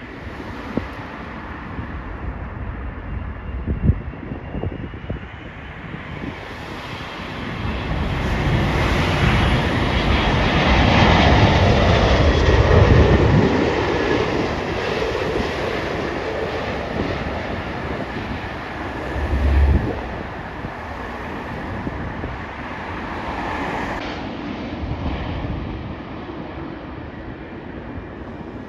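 Jet airliner on final approach passing by: engine rumble and a steady high fan whine swell to a peak about halfway through, then fade. Wind buffets the microphone in gusts.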